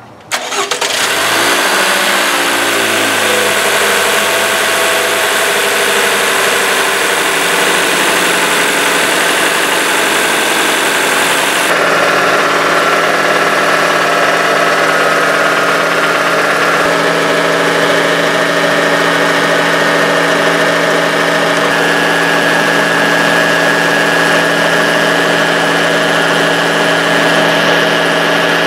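2020 Toyota RAV4's 2.5-litre A25 four-cylinder engine starting on fresh oil and a new filter just after an oil change. It catches within a second and its speed climbs and flares over the first few seconds, then it settles into a steady idle, with a shift in its tone about twelve seconds in.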